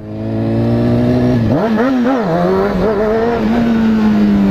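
Honda CBR600F4i's inline-four engine running loud under the rider, its pitch wavering up and down with the throttle about a second and a half in, then holding steady.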